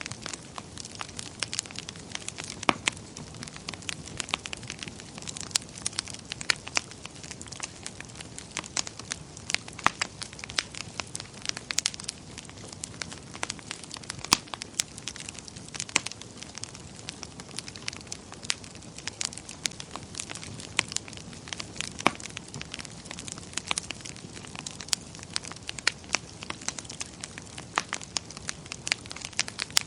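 Wood fire burning in a fireplace: a steady low rush of flames with frequent irregular crackles and pops from the burning wood.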